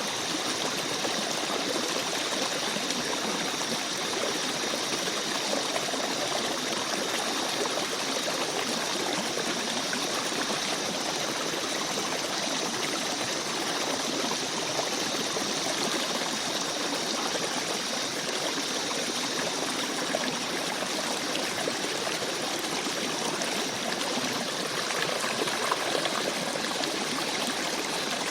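Small forest stream babbling over rocks, a steady run of water with light trickling.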